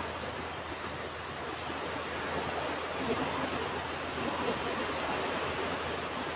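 Ocean waves washing onto a beach, a steady rushing surf with gentle swells in loudness.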